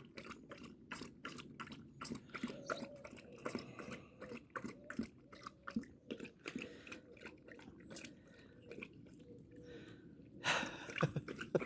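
Dog lapping water from a bowl: quick, repeated wet laps, a few a second, with a louder sound briefly about ten and a half seconds in.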